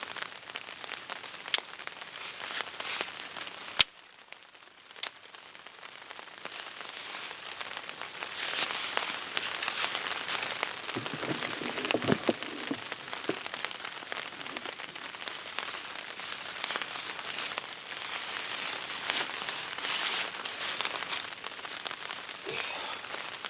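Steady rain falling in woodland, an even patter that builds after a sharp click about four seconds in.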